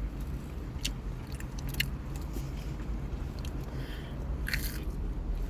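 A person chewing and biting food close to the microphone, with a few sharp crunchy clicks, the loudest about four and a half seconds in, over a steady low hum.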